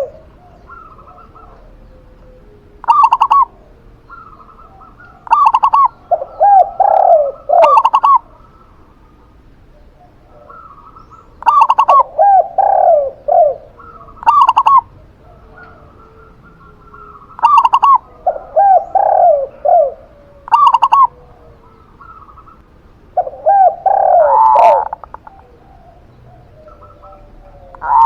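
A zebra dove (perkutut) and a spotted dove (tekukur) cooing loudly in repeated phrases of a second or two every few seconds. Some phrases include short sharp clicks, and one longer call comes near the end.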